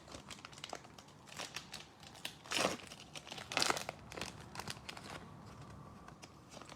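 Crinkly plastic wrapper of a trading-card pack being handled and torn open, a run of short crackles with two louder rips in the middle.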